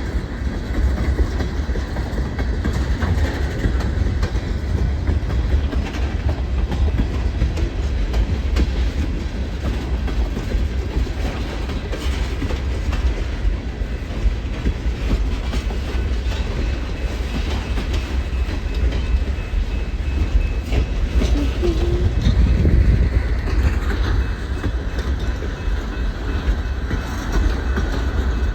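A train passing close by: a steady heavy rumble with wheels clicking and clattering over the rail joints the whole time.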